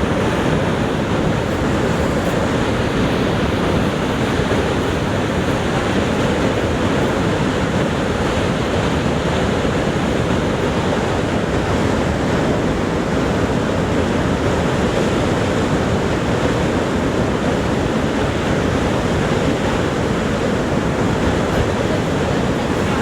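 Niagara Falls' falling water, a deep, steady rushing noise that holds unchanged throughout.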